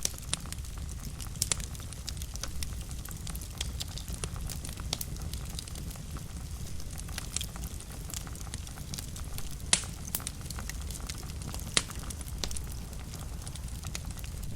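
Wood fire burning in a fireplace: a steady low rumble of flame with many sharp crackles and pops, a few louder pops standing out.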